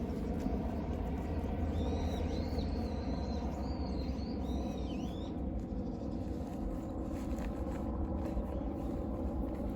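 Birds chirping, a string of short high calls in the first half, over a steady low rumble.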